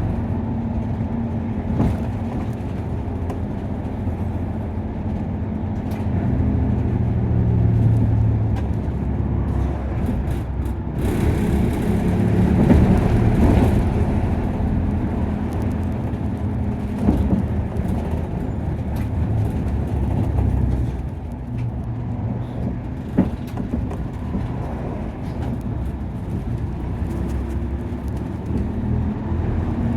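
Interior sound of a Nissan Diesel KC-UA460LSN city bus under way, its diesel engine running continuously, with the engine note swelling and easing as the bus drives on. A few sharp knocks from the body are heard in the second half.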